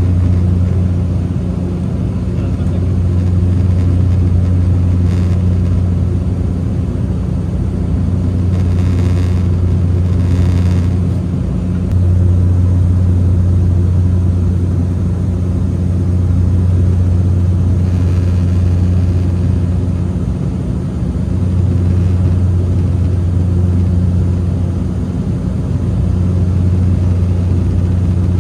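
Steady drone of an airliner's engines heard from inside the cabin, a loud, constant low hum with a second tone above it and an even rush of air noise.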